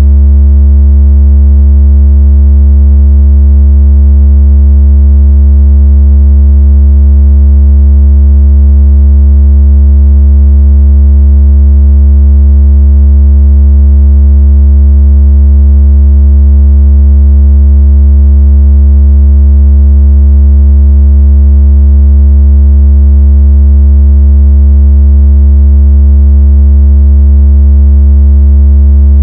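A continuous, very loud, deep electronic tone: a steady low hum with faint overtones that never changes. It is the kind of tone played to shake water out of a phone speaker or to imitate strong vibration.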